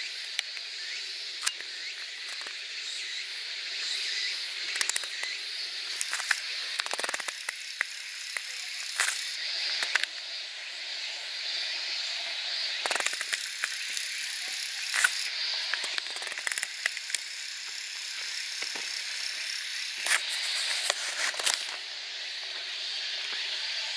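Steady high-pitched insect chorus, with scattered short clicks and rustles over it.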